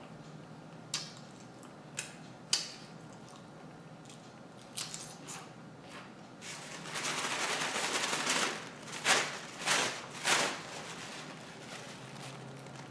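Handling noises: a few sharp clicks, then a couple of seconds of rustling and three louder rustles close together near the end.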